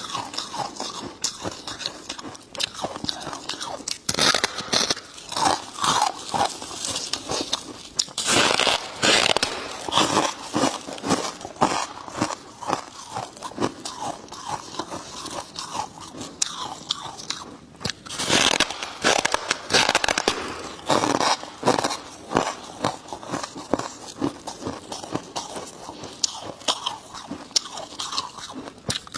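Close-miked biting and chewing of dry freezer frost chunks: rapid crunching and squeaky crackling, with louder bites in clusters and softer chewing between.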